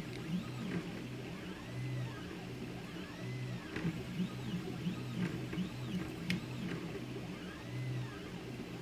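Zonestar P802M 3D printer's stepper motors whining in repeated rising-and-falling pitch glides as the head speeds up and slows down through its moves, over a steady low hum. There is one sharp tick about six seconds in.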